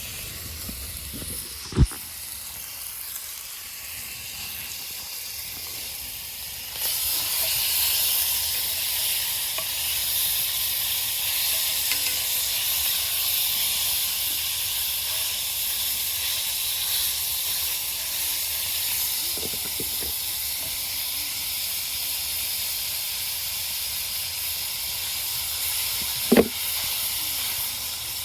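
Food frying in butter in a hot pan, a steady sizzle that suddenly gets louder about seven seconds in and stays loud, with a sharp click near the start.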